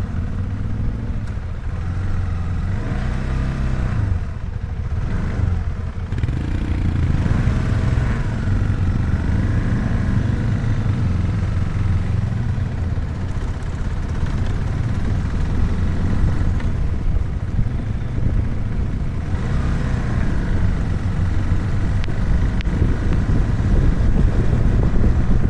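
Motorcycle engine running on the move, its pitch rising and falling a few times, over a steady low rumble.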